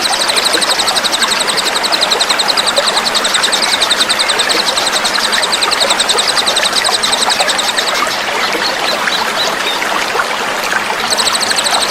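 A small songbird's rapid, dense rattling trill of coarse 'isian kasar' fill notes, the kind used in masteran recordings to train cage birds. It runs over the steady babble of running water, stops about eight seconds in, and starts again near the end.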